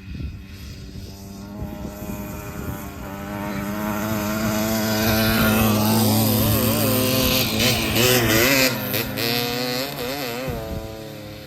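Kawasaki KMX 125 dirt bike's two-stroke engine passing on the track, its revs rising and falling. It grows louder to a peak about two-thirds of the way through, then fades as it moves away.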